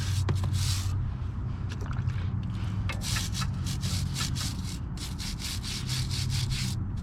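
A large brush scrubbing a motorcycle drive chain in quick back-and-forth strokes, several a second, with a steady low hum underneath.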